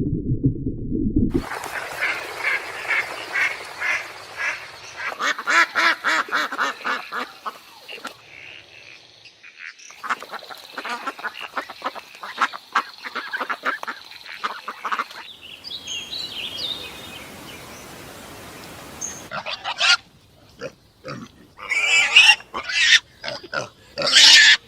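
Ducks quacking in quick runs of short calls, after the tail of a cow's low moo that ends about a second in; sharper, separate calls come near the end.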